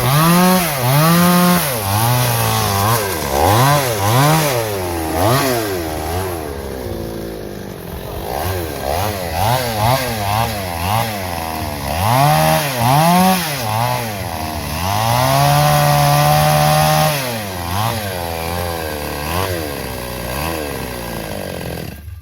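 Two-stroke chainsaw engine revving up and down again and again while cutting through a log, held at a steady high speed for a couple of seconds, then cutting off suddenly near the end.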